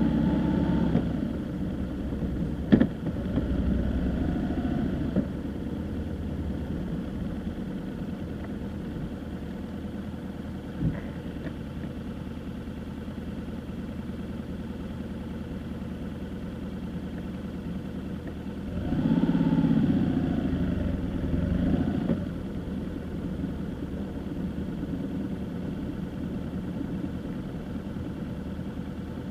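Steady car engine and road noise from a car being driven. It swells twice, briefly at the start and again for about three seconds around the 19-second mark, with sharp knocks near 3 s and 11 s.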